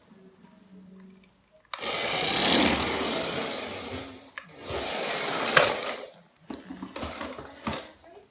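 Radio-controlled rally car's small electric motor and gears whirring as it drives, in a run of about two and a half seconds and then a shorter one, followed by a few light clicks and knocks.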